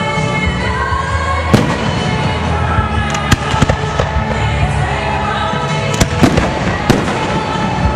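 Aerial fireworks going off in a rapid string of sharp bangs and crackles, the loudest about one and a half, three and a half and six seconds in, over loud music played along with the show.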